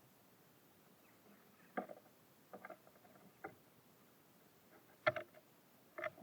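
Birds at a feeder making light, sharp knocks and taps, about five spread over six seconds.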